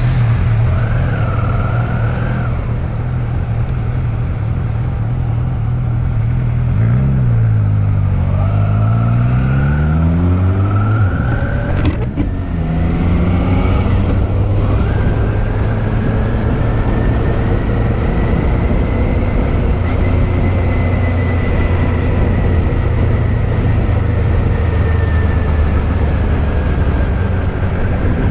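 Motorcycle engine running under way. It holds a steady pitch, then rises as it accelerates for a few seconds, breaks briefly at a gear change about twelve seconds in, and settles into steady cruising.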